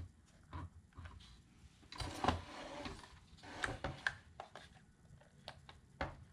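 Irregular small plastic clicks and rustling of instrument cluster parts being handled and pushed into place, with a busier patch about two seconds in.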